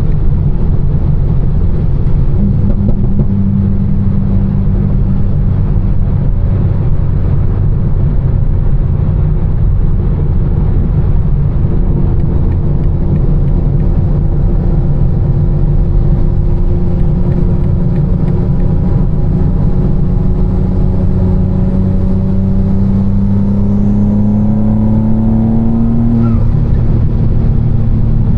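A tuned BMW M4's twin-turbo inline-six, with catless downpipes and an Fi exhaust, running on the road as a steady low drone. From about two-thirds of the way in it pulls harder and its pitch rises for several seconds. Near the end the pitch drops suddenly as it shifts up, then settles.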